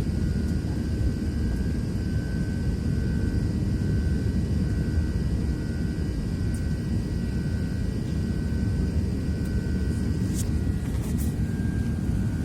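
Steady low engine drone with a faint, steady high whine above it; a few light clicks near the end.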